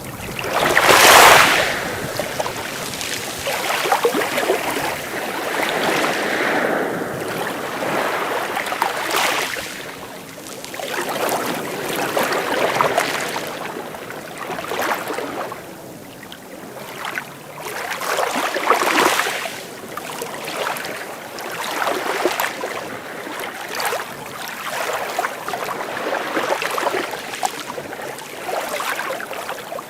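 Sea waves breaking and washing on the shore. The hiss of surf swells and fades every few seconds, with the loudest wave about a second in.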